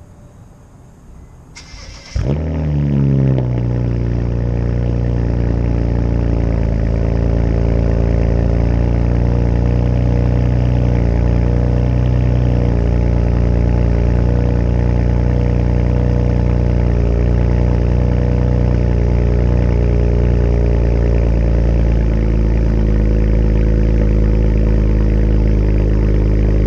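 BMW N54 twin-turbo inline-six in a 335i E92 with a muffler-delete exhaust, cold-started. The starter cranks briefly about two seconds in, and the engine catches with a loud flare. It then settles into a steady, loud high cold idle with no revs, and the idle eases a little lower near the end.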